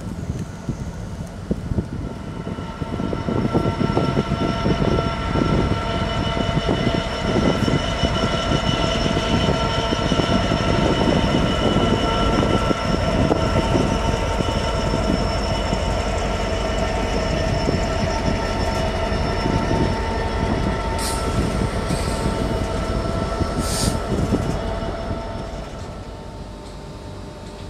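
A train passing on the rails. Its wheels clatter continuously under several steady high whining tones, with a few sharp clicks a little past the three-quarter mark. The sound fades away near the end.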